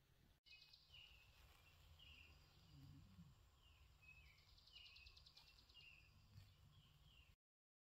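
Faint birdsong: short, falling chirps repeated about once a second, with a fainter trill above them, over a low steady rumble. The sound cuts off suddenly near the end.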